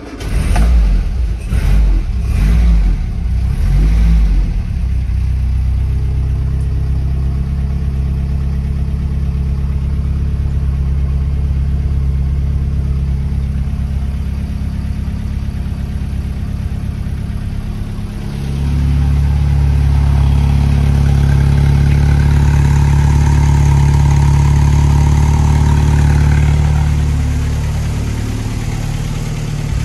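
1963 Triumph TR4's four-cylinder engine on a cold start: it catches with a few uneven surges over the first few seconds, then settles into a steady idle. About two-thirds of the way through it runs faster for several seconds, then drops back near the end.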